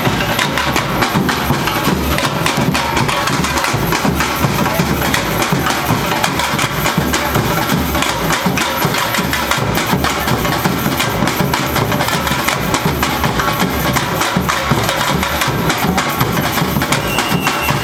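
Brazilian university bateria, a samba percussion ensemble, playing a steady, dense drum rhythm with deep bass-drum pulses under fast, sharp strokes.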